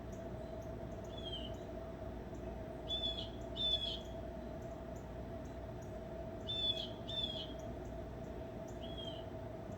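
A bird giving short, high calls: single calls and pairs of calls a few seconds apart, over a steady hum.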